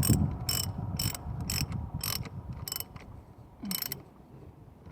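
Tools and parts being handled while tidying up after a repair: a series of sharp clicks about twice a second, with some low handling rumble that fades away.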